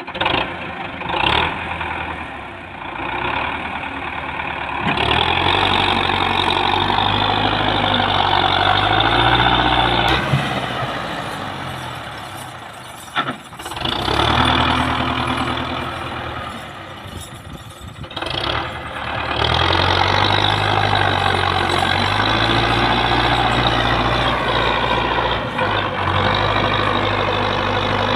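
Heavy diesel tractor engines working hard to free a stuck tractor and trolley from mud, revving up and easing off several times, with two brief lulls before running loud and steady near the end.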